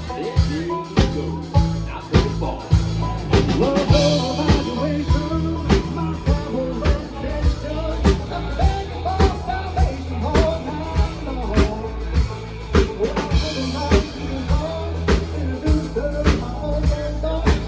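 Live rock-country band playing: a drum kit keeps a steady beat with kick and snare hits under a thick bass line, with a wavering melodic lead line on top.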